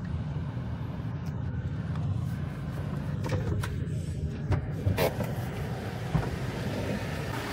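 Steady low rumble of a motor vehicle running, with a few short clicks in the middle.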